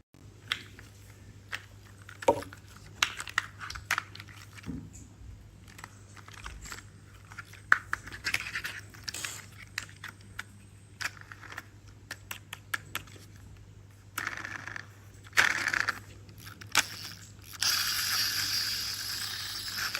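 Plastic toy pieces being handled: irregular sharp clicks and knocks, then a longer rustling scrape in the last couple of seconds.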